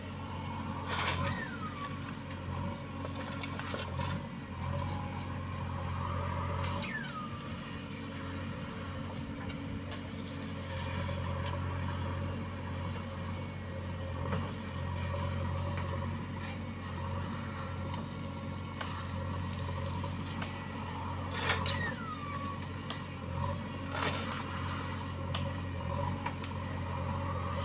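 Diesel engine of heavy earthmoving machinery running steadily, with occasional clanks and a few short falling squeals.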